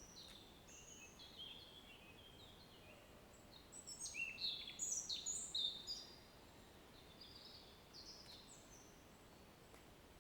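A songbird singing: phrases of short, quick, high notes that step down in pitch, busiest and loudest about four to six seconds in, over a faint steady hiss.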